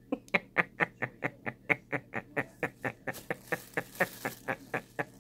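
A woman laughing hard in a long run of rapid, breathy, quack-like pulses, about four or five a second.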